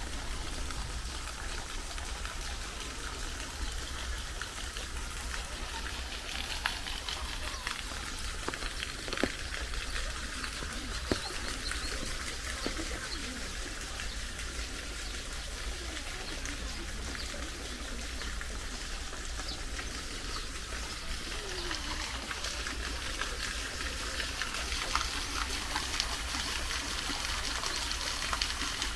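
Steady rain falling on trees and grass, an even hiss with occasional sharper drip taps.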